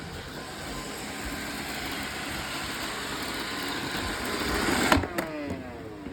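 Roomba robot vacuum running with a steady motor noise that slowly grows louder. About five seconds in it cuts off abruptly and a falling whine follows.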